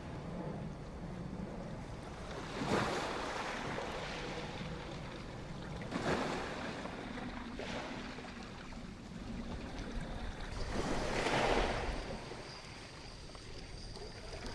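Ocean waves breaking and washing up the shore in surges, the biggest about eleven seconds in, with wind rumbling on the microphone.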